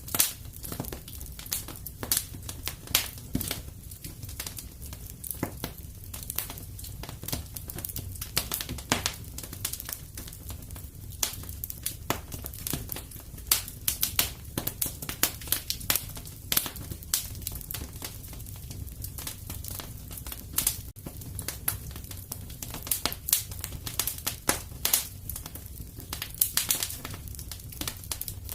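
Wood fire crackling in a fireplace: a constant scatter of irregular snaps and pops over a low steady rumble.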